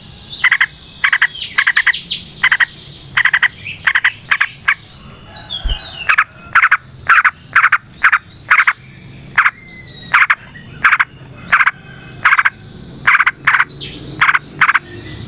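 A long series of short calls repeated about twice a second, pausing briefly about five seconds in, with fainter high chirps in the first few seconds.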